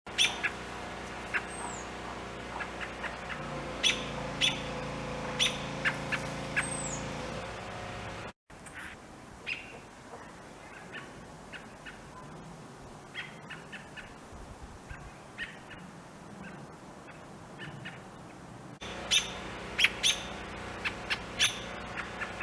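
American robins calling: short, sharp call notes at irregular intervals, with a few thin, high whistles that slur downward. A steady low hum lies underneath for much of the time.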